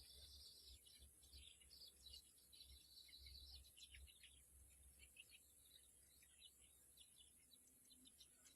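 Faint birds chirping and twittering, quick runs of short high calls coming and going, over a steady high-pitched hiss.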